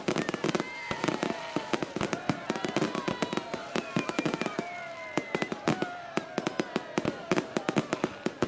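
Fireworks display: a rapid, dense run of crackling pops and bangs, with a few falling whistling tones among them.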